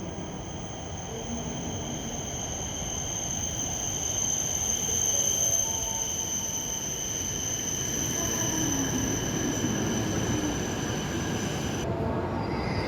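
Shinkansen bullet train running on rails: a steady rumble with a steady high-pitched whine over it, growing a little louder partway through; the whine cuts off abruptly near the end.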